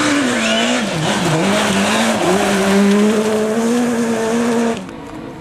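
Rally car engine running hard, its note dipping and climbing again several times as it shifts and gets back on the throttle. Near the end it cuts off abruptly to a much quieter sound.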